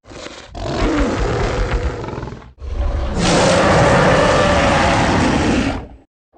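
Two creature roar sound effects made from layered big-cat and monster roars. A shorter roar comes first, then a louder, longer one of about three seconds that cuts off suddenly.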